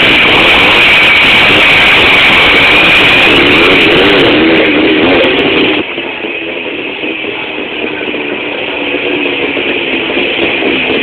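Jawa motorcycle engine running loudly, its pitch wavering up and down, then dropping to a lower, quieter note about six seconds in.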